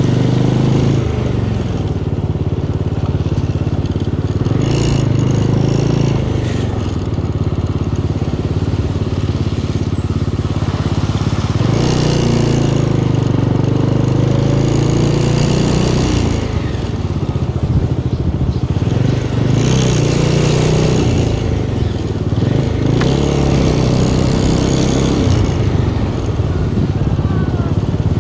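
Motorcycle engine running steadily while riding along, its pitch rising and falling several times with throttle and gear changes.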